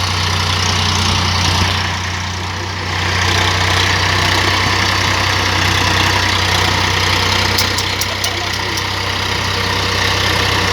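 Tractor's diesel engine running steadily with a low hum, a little louder from about three seconds in.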